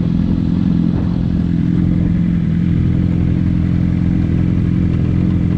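Motorcycle engine running steadily at an even cruising speed, with wind rush and low road rumble.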